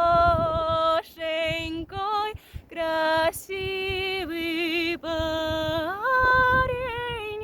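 A woman's voice singing a slow folk-style melody unaccompanied, in long held notes with vibrato and short breaks between phrases. It glides up to a higher note about six seconds in, with a low rumble underneath.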